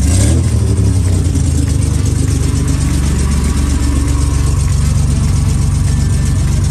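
Citroën SM's Maserati V6 engine running at a steady idle with an even, rapid exhaust pulse, its exhaust system not yet finished.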